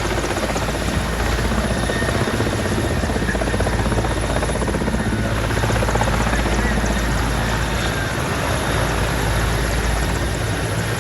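Helicopter rotor and engine noise, steady and loud, with a fast even chopping from the blades.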